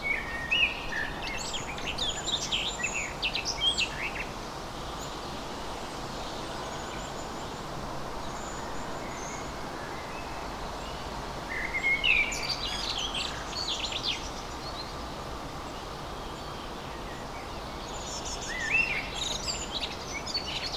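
A songbird singing quick, high chirping phrases in three bouts, about a quarter of the way through, past the middle, and near the end, over a steady background rush.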